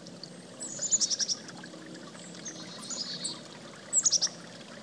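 A songbird calling in quick clusters of high chirps and short falling notes, about a second in and again about four seconds in, over a faint steady background rush.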